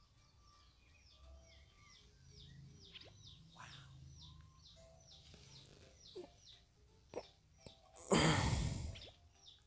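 Small birds chirping, a quick steady series of short downward-sliding calls. About eight seconds in, a sudden loud rushing noise fades out over about a second.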